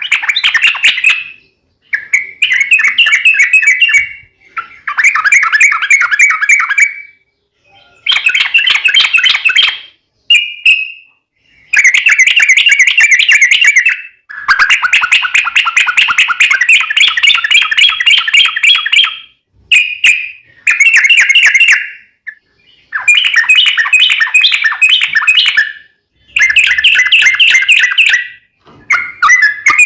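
Yellow-vented bulbul (trucukan) singing: repeated phrases of rapid, bubbling chattering notes, each lasting a few seconds, with short pauses between them.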